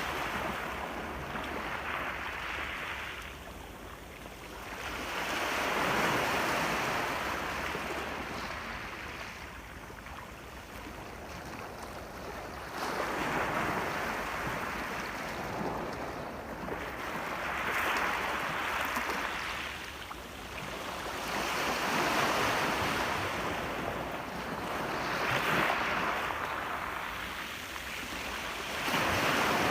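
Ocean surf: waves breaking and washing up a shore, the hiss swelling and fading every four or five seconds.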